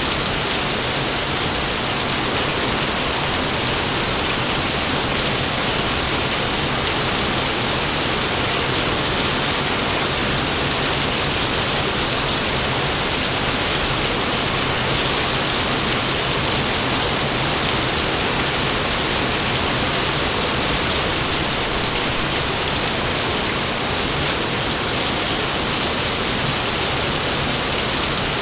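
Heavy rain falling steadily, a dense even hiss with no thunder in this stretch.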